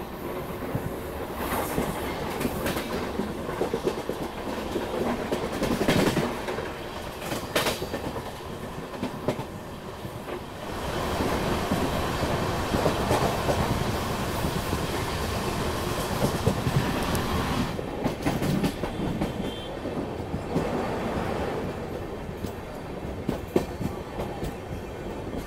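Running noise of a passenger train heard from a coach door, with wheels clacking over rail joints and points. For several seconds in the middle, a train passing on the next track adds a louder, steady rush.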